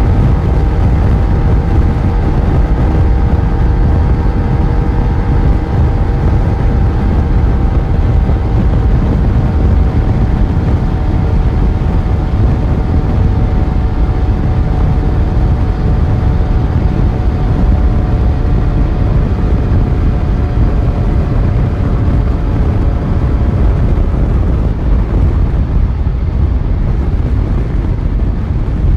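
Yamaha FZ1's inline-four engine running under way at a steady cruise, with heavy wind noise. The engine note slowly falls in pitch and fades out near the end as the bike eases off.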